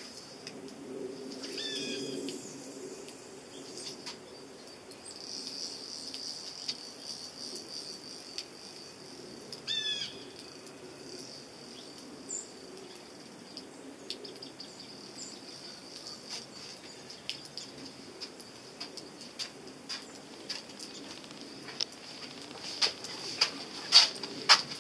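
Outdoor ambience with a faint steady high hiss, in which a bird gives a short run of descending chirps twice, about two and ten seconds in. Near the end comes a cluster of sharp clicks and knocks, the loudest sounds here.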